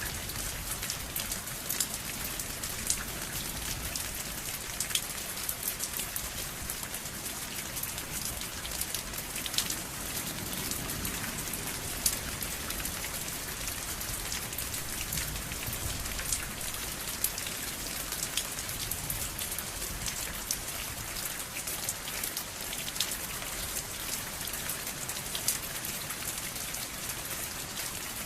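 Steady rain falling, a dense even hiss with many distinct drops pattering and ticking sharply on a surface.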